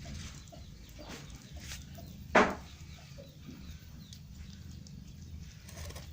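A short, sharp animal sound about two and a half seconds in, the loudest thing here, with a couple of fainter short sounds before it, over a steady low hum.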